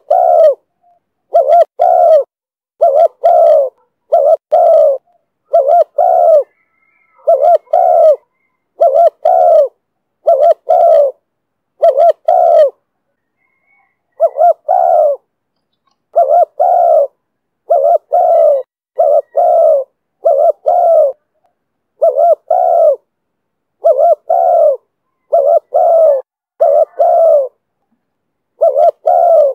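Spotted dove cooing over and over in the call style that keepers call 'thổ thúc bổi': short coos in pairs and small groups about every second, with a brief pause about halfway.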